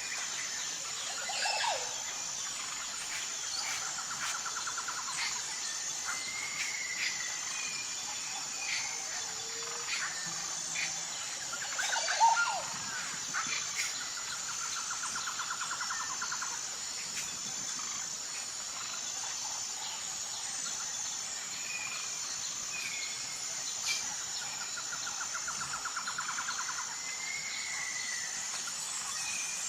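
Insects trilling steadily at a high pitch, with birds chirping and calling over them: a trilled call comes back about every ten seconds, and one louder call comes about twelve seconds in.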